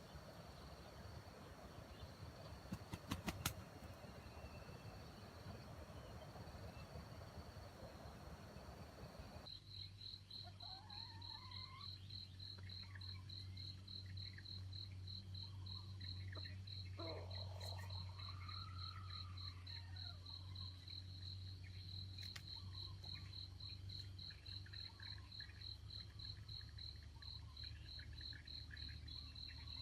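An insect chirping steadily in a fast, even pulse of a high tone, about three chirps a second, with faint bird calls scattered underneath. For the first few seconds there is only a faint hiss with a couple of clicks.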